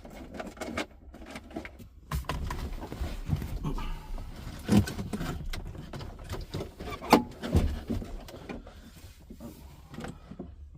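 Hands working under a car's dashboard: irregular rustling, clicks and knocks of wiring and trim parts being moved, with two sharper knocks about five and seven seconds in.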